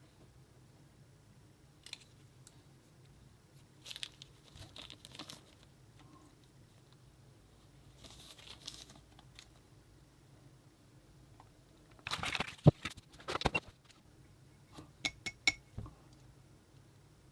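Product packaging being handled by hand: intermittent rustling and crinkling, with a louder cluster of rustles and knocks about twelve seconds in and a few sharp clicks a little later.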